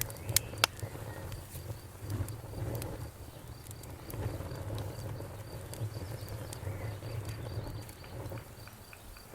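Bonfire crackling, with a low rumble and a few sharp pops in the first second. A cricket chirps in a steady run of high, even pulses from about a third of the way in.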